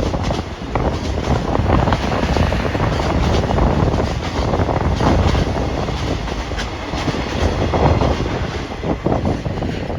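A train running past, its wheels clattering over the rail joints in repeated clicks above a steady rumbling noise.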